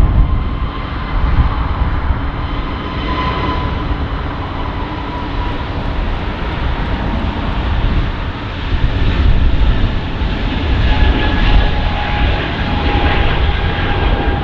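Jet engines of a Frontier Airlines Airbus A320neo at takeoff power as it departs, a loud steady rumble with a faint high whine over it.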